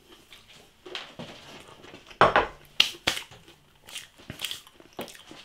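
Close-up eating sounds: a person chewing breaded spicy chicken chunks, with scattered sharp mouth clicks and smacks and a louder burst about two seconds in.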